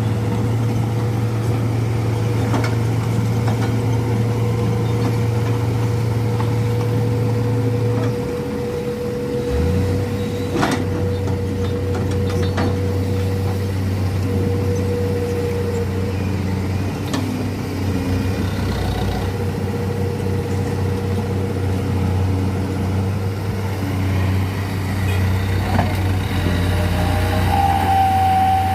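Dump truck's diesel engine running steadily under a higher, steady whine; the engine note drops and picks up again about eight to ten seconds in.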